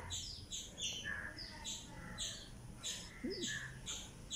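A small bird chirping over and over in quick short, slightly falling notes, about four a second, with a few lower chirps mixed in.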